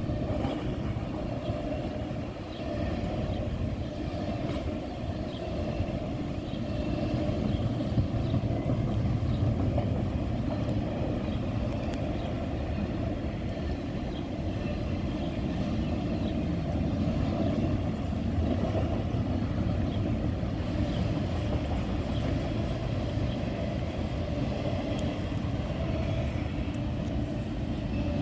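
Norfolk Southern freight train rolling past, a steady rumble of cars on the rails.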